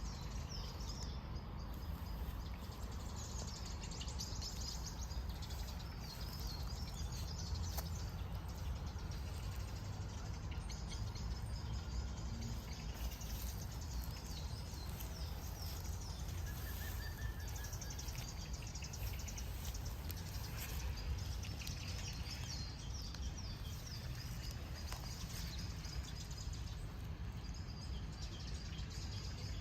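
Outdoor ambience: many small birds chirping over a steady low rumble.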